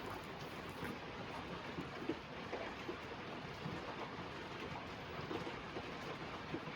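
Steady hiss of background noise with a few faint light clicks scattered through it.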